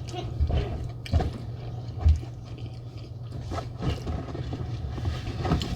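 Close-miked eating of a seafood boil: chewing and biting, with scattered clicks and scrapes, over a steady low hum.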